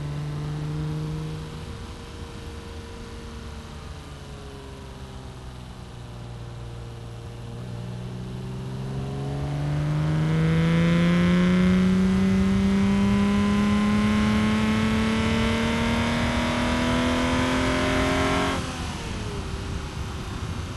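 BMW E36 M3's straight-six engine through a Supersprint street exhaust with the catalytic converter removed, heard from inside the car. The revs sag as it coasts, then climb steadily and loudly for about ten seconds under hard acceleration, and fall away suddenly near the end.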